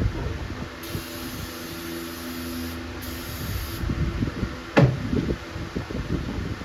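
Aerosol car cleaner sprayed onto an engine oil dipstick in two hissing bursts, the first about two seconds long and the second under a second. A sharp knock follows, with handling clicks.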